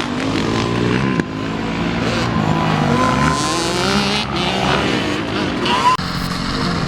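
Dirt bike engines revving up and down on a motocross track, with the pitch rising and falling repeatedly. The sound breaks off abruptly about a second in and again near the end.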